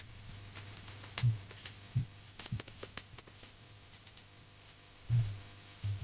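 Scattered light clicks and a few soft thumps over a low steady hum.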